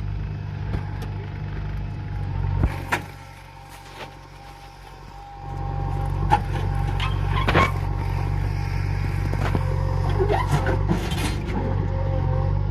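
Diesel engine of a JCB backhoe loader running under load, with scattered metallic clanks and knocks. The engine sound drops away about three seconds in and comes back strongly a couple of seconds later.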